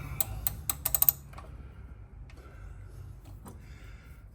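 Sharp metal clicks from hand tools working the bolt on a mower's blade-belt tensioner: a quick run of about eight clicks in the first second, then a few faint ticks.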